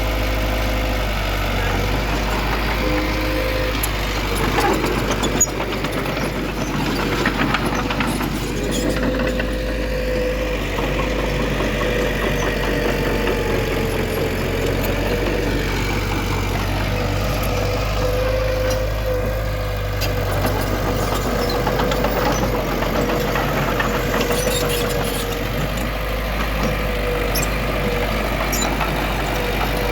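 Diesel engine of heavy earthmoving machinery, a bulldozer or dump truck, running steadily at a constant level, with a held tone that drifts slightly in pitch. A brief knock comes about five seconds in.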